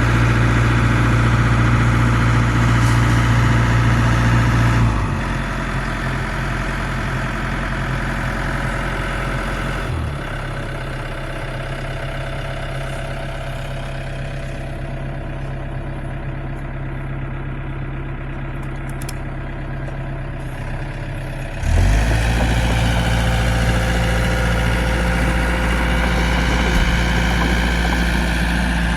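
Excavator's diesel engine running steadily, easing down in level about five seconds in and again about ten seconds in, then rising sharply again past the twenty-second mark.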